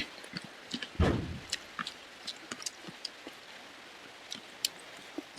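A person eating: a loud mouth smack about a second in, then scattered small clicks and smacks of chewing.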